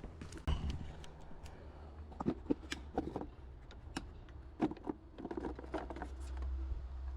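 Scattered light clicks and knocks of hands handling small parts, at irregular times, over a low steady hum.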